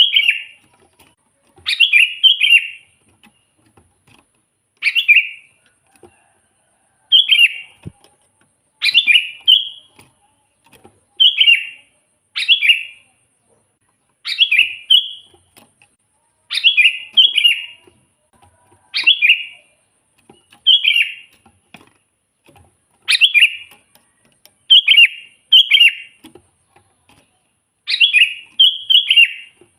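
Sooty-headed bulbul (kutilang) singing in full song: short, loud phrases repeated every one to two seconds, with brief silences between them.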